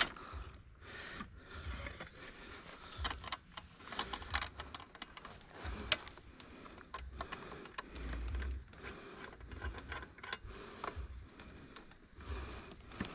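Scattered clicks, knocks and light rattles as a cordless chainsaw in its scabbard is handled and fitted into a saw-press mount on a bike's rear rack, with low thumps of handling on the microphone.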